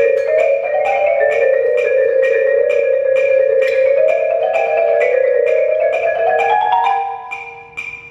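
Marimba playing fast runs of rapid notes, climbing in pitch toward the end, over a sharp steady click about three times a second.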